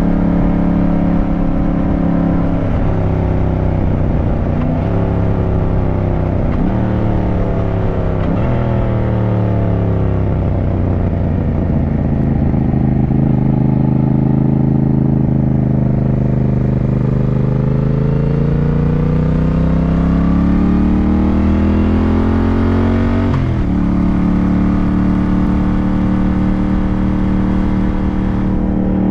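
Yamaha motorcycle engine under way, heard from on the bike: engine speed falls in several steps, runs low and even for a few seconds, then climbs steadily under acceleration until a gear change about 23 seconds in drops the pitch, after which it runs steadily.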